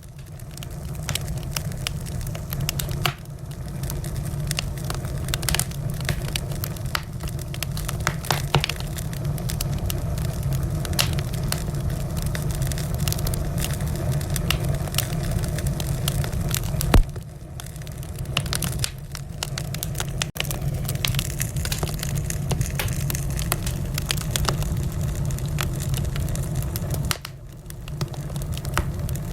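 Wood fire burning in a fireplace, crackling steadily with many small sharp pops over a low rumble of the flames. One louder pop comes about 17 seconds in.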